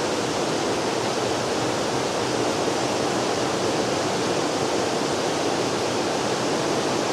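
Waterfall: a steady, even rush of falling water with nothing else standing out.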